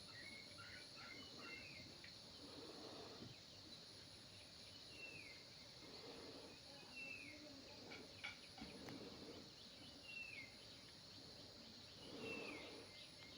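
Faint outdoor ambience: a bird gives a short falling call, repeated every second or two, over a faint steady high hiss like insects.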